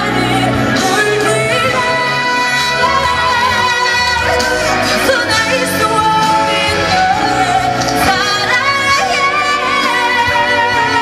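A female singer performing a pop song live, singing over amplified band accompaniment.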